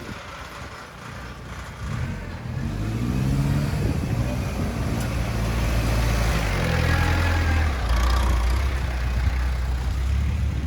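Truck engine revving up about two seconds in, then running steadily with a loud low drone.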